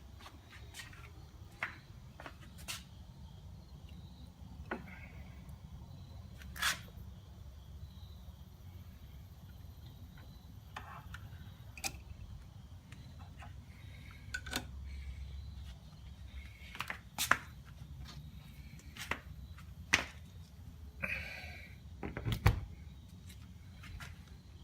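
Scattered sharp clicks and knocks from handling as a rusty grenade body is put back into an electrolysis bucket and set up again, over a low steady hum. The clicks come irregularly, thickest and loudest in the last third.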